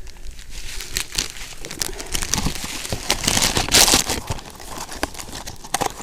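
A packet or bag crinkling and rustling as it is handled, in quick irregular crackles that are loudest a little past the middle.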